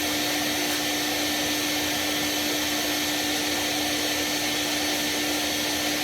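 Vacuum cleaner running steadily, with a constant motor whine over an airy hiss, drawing soot out of a cast-iron boiler's flue passages.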